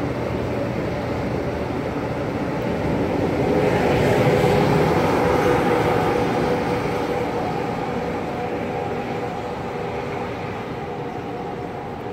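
Amtrak Acela trainset running past and away: wheels rumbling on the rails with a steady hum from the rear power car, loudest about four to five seconds in as the power car passes, then fading as the train pulls away.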